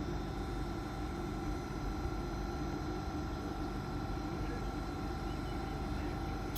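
A train standing at the station platform with its engine or onboard equipment running: a steady hum under a few constant whining tones.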